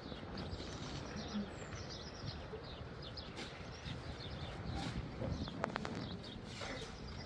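Small birds chirping repeatedly in short calls over a steady low background rumble, with a few sharp clicks about five and a half seconds in.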